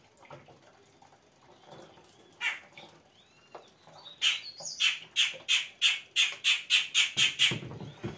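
A bird squawking, a rapid run of about a dozen harsh calls at three to four a second lasting about three seconds, with a few soft chirps before it.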